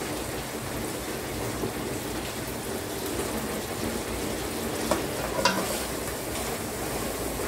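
Onion, tomato and yogurt masala sizzling steadily in a steel pot. About five seconds in, a steel ladle clicks against the pot a couple of times, and stirring begins.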